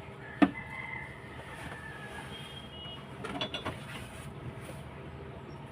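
Metal hand tools clinking on the 6HL1 engine's valve gear as valve-clearance adjustment begins: one sharp clink about half a second in and a few lighter clicks around three and a half seconds, over a steady low hum with a couple of short high tones.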